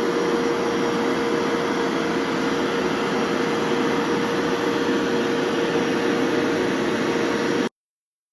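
Bissell Stain Pro 4 upright carpet washer running steadily as it shampoos carpet: a steady suction-motor rush with a constant hum tone. It cuts off abruptly near the end.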